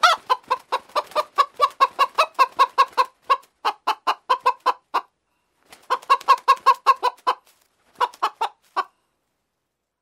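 Rooster clucking in quick runs of short, clipped notes, about four or five a second. A long run is followed by two shorter ones after brief pauses, and it stops about a second before the end.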